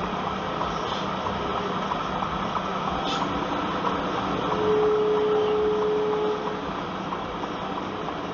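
Steady vehicle engine and road noise heard inside a car crawling in slow highway traffic. About halfway through, a steady single-pitched tone sounds for about two seconds, then stops.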